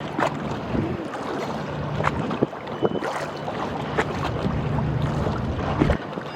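River ambience: a boat engine running with a low steady hum, water slapping and splashing in short irregular bursts, and wind noise.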